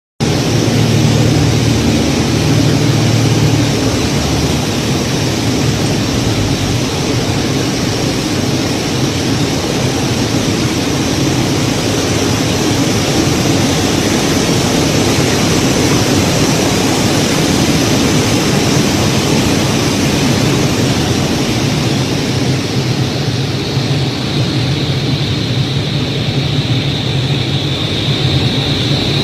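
Airplane engine running steadily in flight, a loud, even noise with a low hum. A higher whine rises slightly over the last few seconds.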